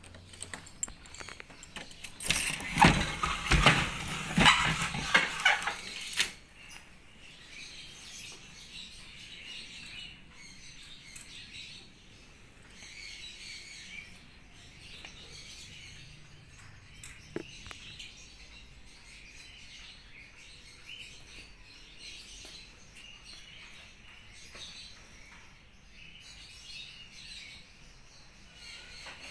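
Small birds chirping and twittering throughout. About two seconds in, a loud crackling, rustling noise lasts for some four seconds, with a single sharp click later on.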